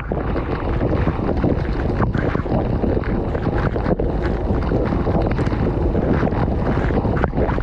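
Dishwasher spray arms jetting water over the dishes inside the tub, a loud, steady rushing spray heard up close, with a few sharp knocks about two and four seconds in and near the end.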